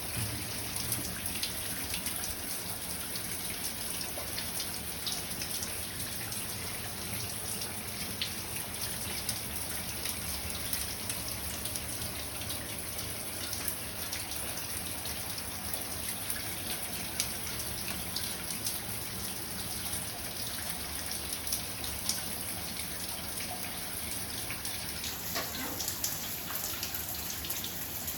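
Steady patter of rain or falling water, dense with small irregular ticks.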